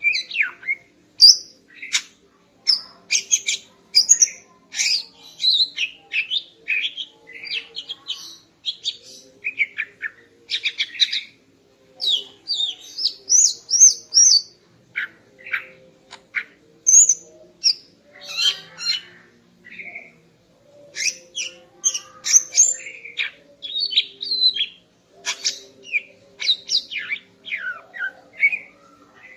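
Female greater green leafbird (cucak ijo) calling: a continuous run of short, high, quick notes and chattering phrases with brief pauses between them.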